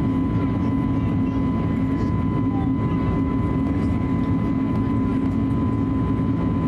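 Steady cabin drone of an Airbus A320neo: an even low hum with a constant high whine over it, unchanging throughout.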